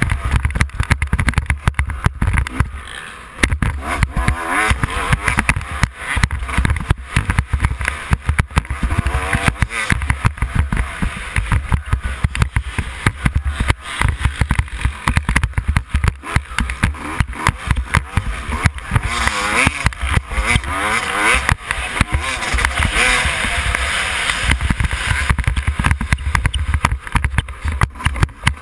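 Yamaha YZ250 two-stroke motocross engine revving up and down over and over as the bike is raced. Heavy rumble of wind on the microphone and many sharp knocks run through it.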